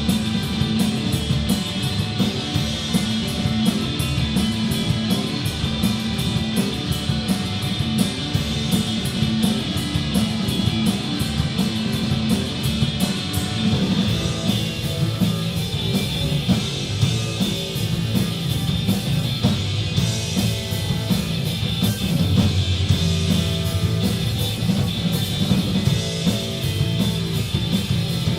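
Rock band playing live: loud electric guitars, bass and a drum kit with fast, steady cymbal hits, in a garage-rock style.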